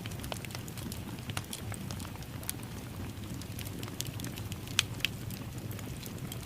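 Fireplace fire crackling: a steady low rumble of flames under frequent sharp snaps and pops, with two louder pops close together a little past the middle.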